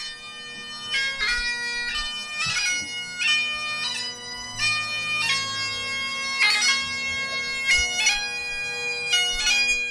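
Bagpipes playing a melody over a steady drone, the chanter's notes changing with quick grace-note flicks.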